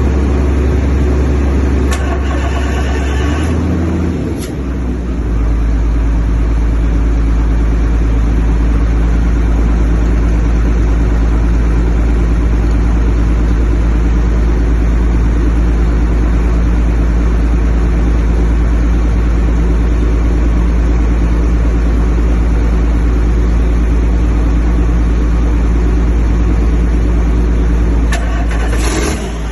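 International DT466 inline-six diesel engine running after a full rebuild. Its speed drops about four seconds in, and it then runs steadily at a lower speed.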